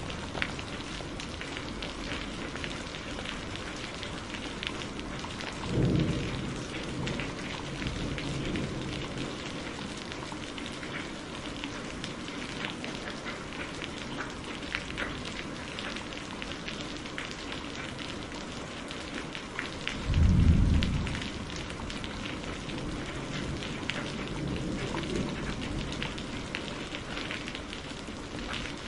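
Steady rain with two rolls of thunder: one about six seconds in, and a louder, deeper one about twenty seconds in.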